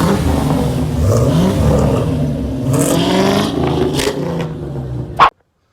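A car engine revving and accelerating, its pitch climbing in rising sweeps over a loud steady run. About five seconds in there is a single sharp crack, and the sound cuts off abruptly.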